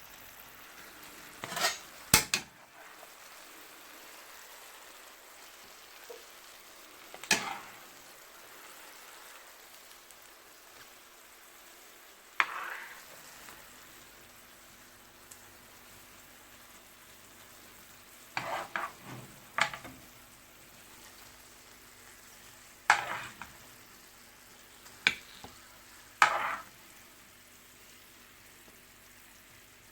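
Chicken simmering and sizzling softly in a pan of honey and soy glaze, with a cooking utensil scraping and knocking against the pan about ten times, in short separate strokes every few seconds.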